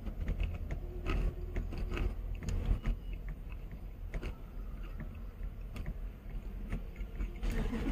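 Close-up chewing of a potato wedge on dentures with a piece broken off, small clicks and smacks scattered through, over a steady low hum.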